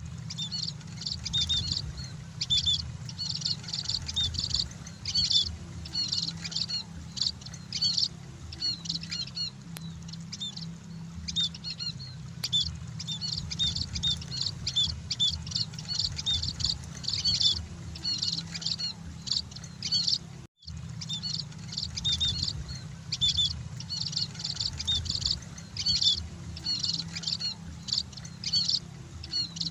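A group of munias (emprit) chirping, a dense stream of quick, high, short calls overlapping one another, with a steady low hum beneath. The sound breaks off for a split second about twenty seconds in.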